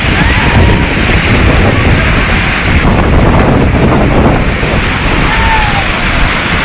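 Heavy water rushing out of the opened gates of the Krishna Raja Sagara dam, a loud, steady rush, with wind buffeting the microphone.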